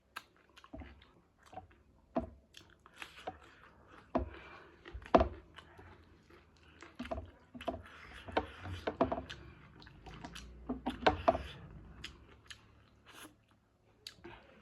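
Close-miked mukbang eating of chicken wings curry with rice: chewing and mouth sounds with irregular sharp clicks and crunches, the loudest about five seconds in.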